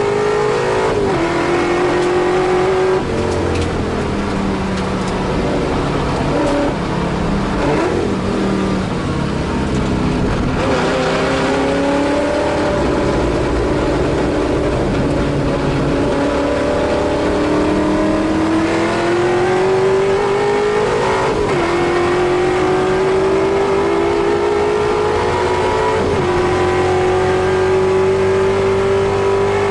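Holden Torana A9X Group C race car's V8 engine heard from inside the car under hard racing. Its pitch climbs through each gear and drops sharply at the upshifts, about five of them, and sags in a rougher stretch where it slows for corners.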